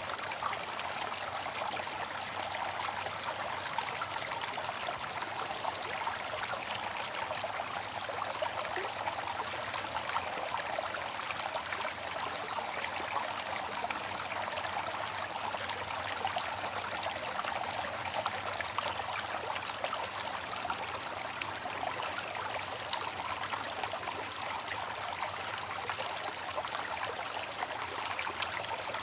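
Water fountain splashing and trickling steadily, an even rush of falling water with small splashes throughout.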